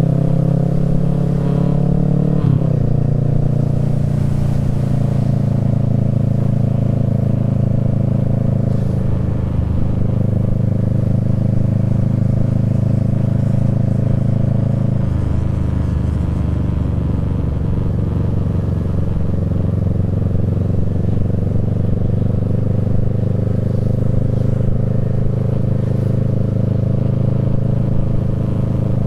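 Kawasaki Z650 parallel-twin engine through a Yoshimura Alpha exhaust, running under way at a fairly steady pitch. The note rises and then drops sharply about two and a half seconds in, as at a gear change, and shifts in pitch again around ten and fifteen seconds in.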